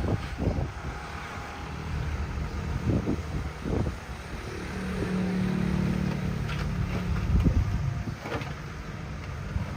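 Diesel engine of heavy earth-moving machinery running, with a steady drone in the middle and several short knocks and clanks.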